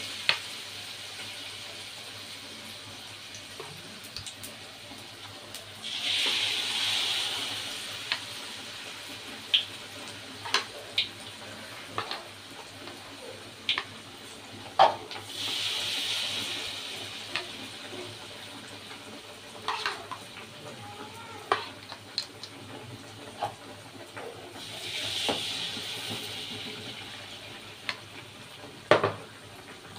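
Battered tempe deep-frying in hot oil in a wok: a steady sizzle that swells louder three times, about 6, 15 and 25 seconds in, as more pieces go into the oil. Scattered sharp clicks and taps run through it.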